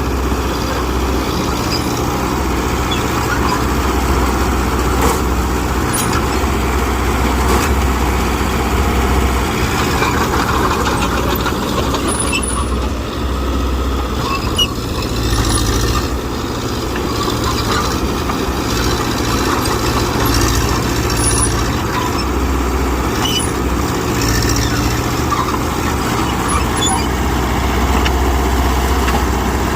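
Diesel engine of heavy earthmoving machinery running steadily under work, its low hum swelling and easing every few seconds.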